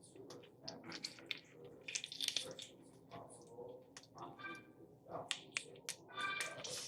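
Close-up eating sounds: chewing and a scatter of short wet mouth clicks and smacks while eating chicken.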